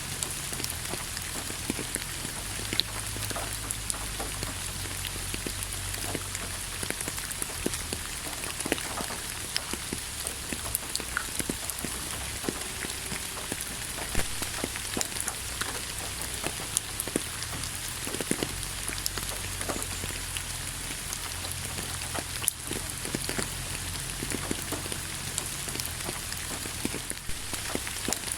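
Steady rain falling on a surface, a continuous hiss with many individual drops clicking and splatting close by, over a low rumble.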